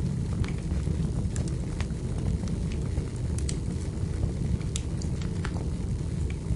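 Wood fire in a fireplace crackling, with irregular sharp pops about one or two a second over a steady low rumble of the flames.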